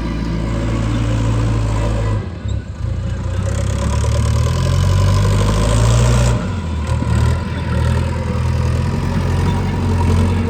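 Heavy diesel earthmoving engine running steadily with a low drone. The sound shifts abruptly about two seconds in and again about six seconds in.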